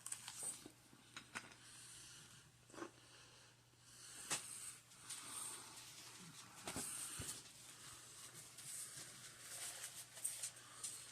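Close-up eating sounds: chewing a pizza bagel with small mouth clicks and breathy nasal breathing, irregular and quiet.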